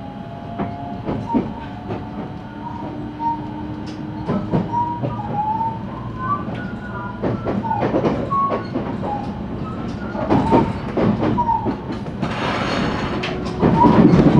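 JR West 223-series electric train heard from inside its motor car as it picks up speed. The traction inverter and motors give a whine that rises slowly in pitch, under the running noise of the wheels and rail-joint clicks that come more often as the train speeds up. Near the end, a louder rushing clatter takes over.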